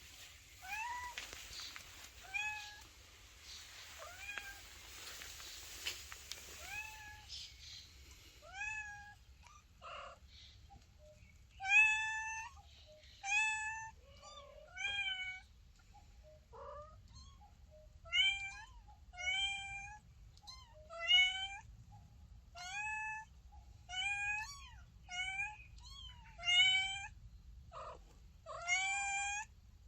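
A kitten meowing over and over in short, high-pitched cries, roughly one a second, growing louder and more insistent about twelve seconds in.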